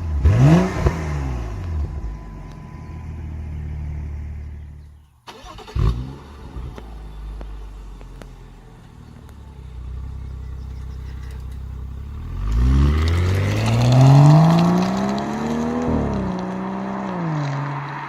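BMW F10 535i's turbocharged straight-six with an M Performance exhaust, revved in quick blips with crackles, settling to idle between them. Near the end a longer rev rises over about two seconds, holds, and drops back.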